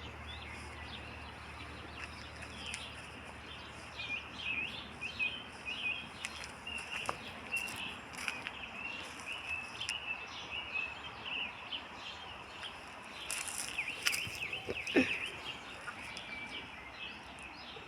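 Small birds chirping in quick, irregular short notes over steady outdoor background noise, with an occasional faint click.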